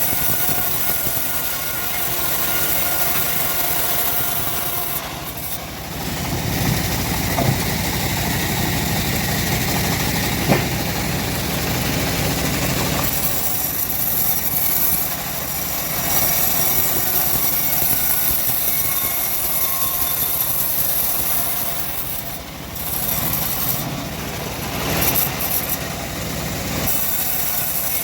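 Homemade engine-driven bandsaw mill running and sawing timber, a steady engine sound that grows fuller in the low end for stretches of several seconds and dips briefly a couple of times.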